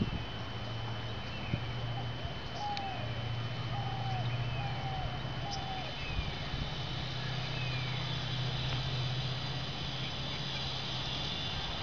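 Birds calling: a short high descending chirp repeated about once a second, and a run of four or five lower calls in the first half. Under them run a thin steady high tone and a low steady hum.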